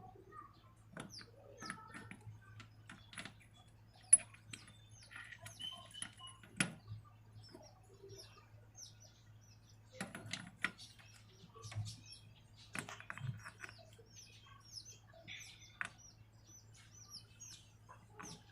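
Sharp clicks and light knocks of small metal parts being handled as a starter motor's cover is fitted and lined up with its screw holes, the loudest click about four seconds in. Small birds chirp throughout, over a faint steady hum.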